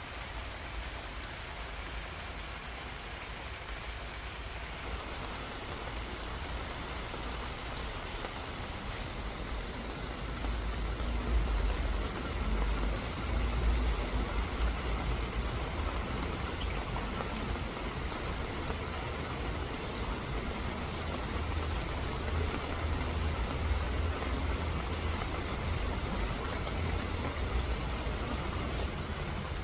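Steady rain falling. It grows heavier about five seconds in, with a low rumble underneath that swells and fades.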